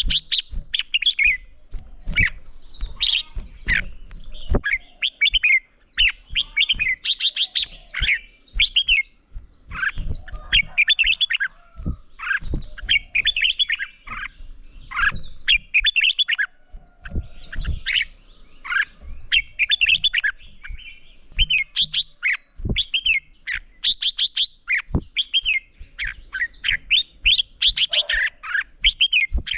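Red-whiskered bulbul song: rapid, repeated short warbled phrases, the full competitive song that keepers use to rouse other birds. Sharp clicks break in among the phrases throughout.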